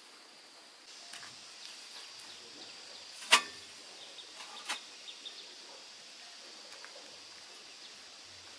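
Steady high insect drone, with one sharp knock about three seconds in and a softer one just over a second later.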